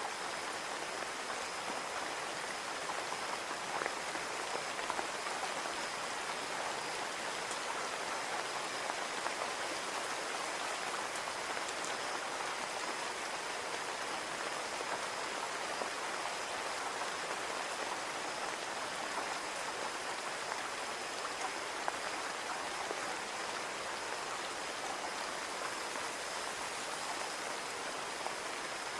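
Steady rain falling and pattering on a window pane, with scattered individual drop ticks. A faint steady high tone sits under the rain.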